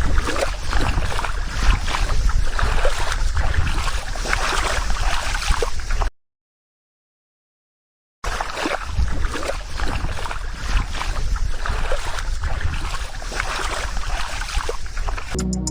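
Water sloshing and splashing with wind buffeting the microphone, broken by about two seconds of dead silence in the middle.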